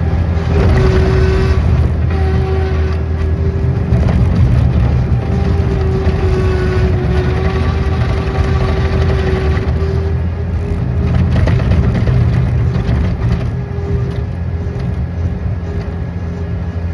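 A machine engine running steadily under load, with a steady whine above its low drone and faint higher squeals.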